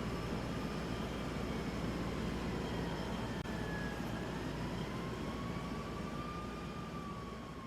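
Steady mechanical rumble with a distant emergency siren wailing, its pitch slowly rising and falling; the sound fades out near the end.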